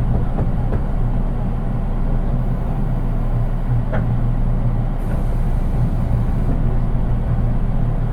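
Running noise inside the unpowered KuHa 183 control car of a JR East 183 series electric train: a steady low hum of wheels on rail with no traction motor sound. A single short click about four seconds in.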